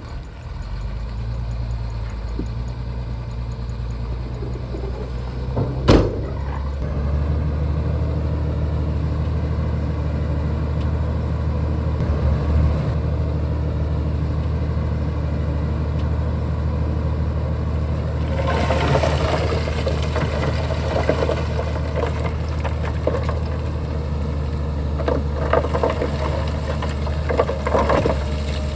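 Shantui crawler bulldozer's diesel engine running steadily under work. There is one sharp knock about six seconds in, after which the engine runs a little louder. From about two-thirds of the way through, a rougher, irregular noise rides over the engine.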